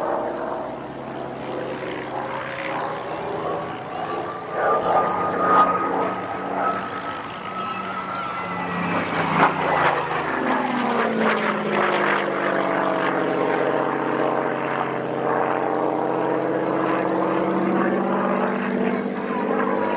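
Propeller-driven aircraft flying past with its piston engine running steadily. The engine note climbs slightly as it approaches, then drops in pitch about halfway through as it goes by, and stays loud as it draws away.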